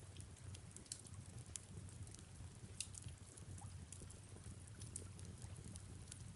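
Faint fireplace ambience: a wood fire crackling with irregular sharp pops over a low steady rumble, with soft rain.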